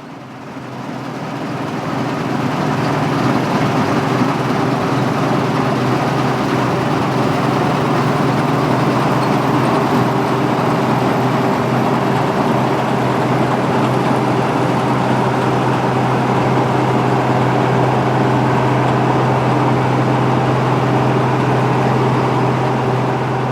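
Claas Dominator 68 combine harvester running while cutting wheat: a steady drone of engine and threshing machinery. It swells over the first couple of seconds, then holds level.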